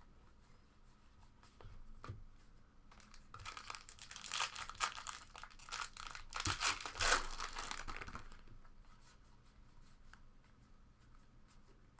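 A trading card pack's wrapper torn open and crinkled, a crackling rustle of about five seconds starting some three seconds in. Faint scattered ticks of handling come before and after it.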